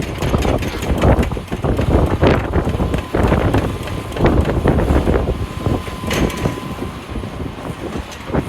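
Heavy diesel wheel loader running under load, a deep engine rumble with irregular knocks and clatter as it works rocks. A thin, steady high tone rises briefly through it in the middle.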